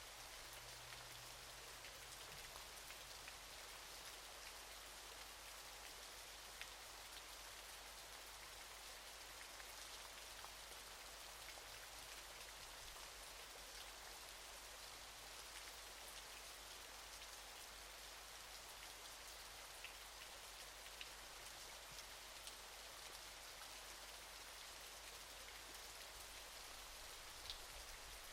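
Waterfall: a faint, steady rush of falling water, with a few light droplet ticks scattered through it.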